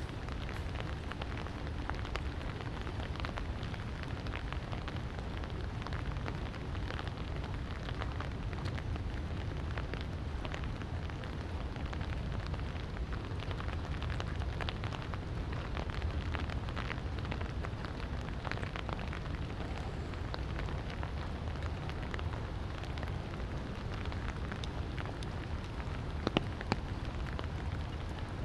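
Light rain falling steadily, a dense patter of small drop ticks over a low steady rumble, with two louder taps about 26 seconds in.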